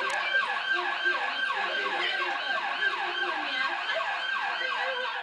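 Emergency vehicle sirens sounding, several at once, in quick repeated falling sweeps about three a second; the sound cuts off suddenly at the end.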